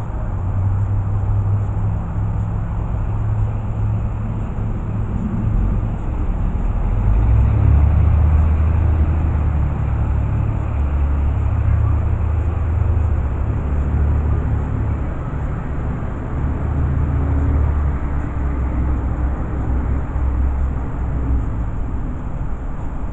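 Steady low engine rumble that swells about seven seconds in and eases off again, with a faint steady high whine above it.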